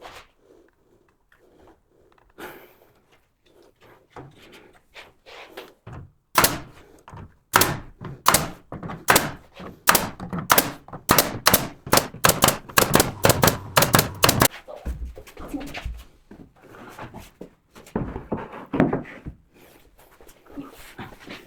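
A run of sharp wooden knocks and thuds, about two to three a second, for several seconds in the middle, with softer, irregular knocks before and after. It is a wooden headboard panel being knocked and worked onto its wall battens.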